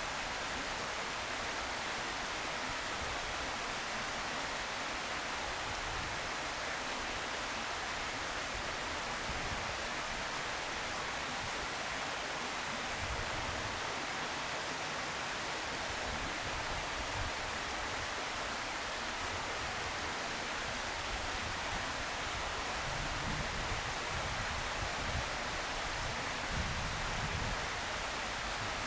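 Steady, even hiss with no distinct events, and soft low rumbles of wind on the microphone now and then.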